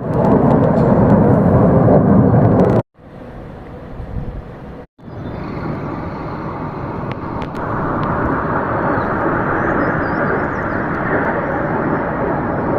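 Fighter jet flying low overhead, a loud rushing engine noise. It cuts off suddenly about three seconds in, comes back quieter, cuts off again about five seconds in, and then builds up again.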